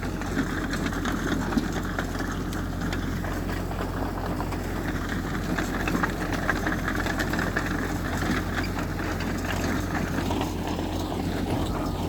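Heavy earth-moving machinery's diesel engine running steadily, with scattered short metallic clanks.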